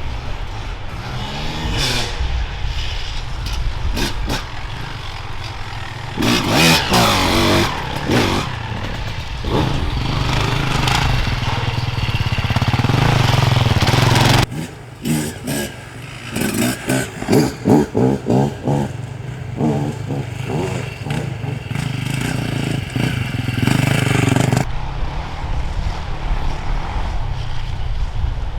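Off-road enduro motorcycles riding past, engines revving hard and easing off. About halfway through, one engine goes in a run of short, quick throttle bursts before the revs steady again.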